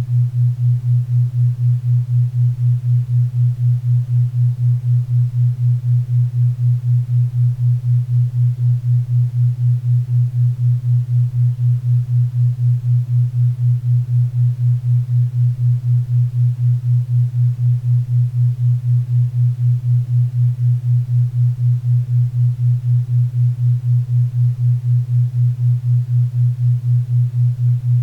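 4 Hz theta-wave beat: a low steady tone pulsing evenly about four times a second, over faint pink and brown noise.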